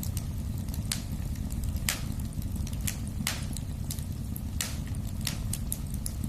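Wood fire burning in a fireplace: a steady low rumble of flames with sharp, irregular crackles and pops, about one or two a second.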